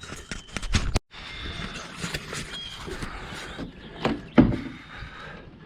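Knocks, clicks and rattling from getting a motorcycle out of a trailer, with two heavy thumps near the end.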